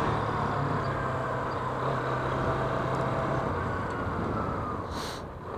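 Yamaha Fazer 250's single-cylinder engine running steadily while riding, its pitch dropping a little about three and a half seconds in as the throttle eases, with wind noise over the sound. A brief hiss comes near the end.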